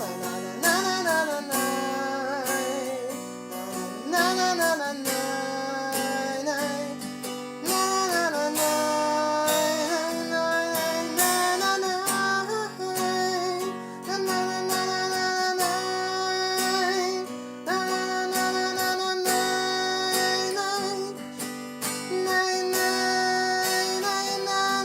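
Music: acoustic guitar strumming chords under a sustained, wavering melody line, with no words sung.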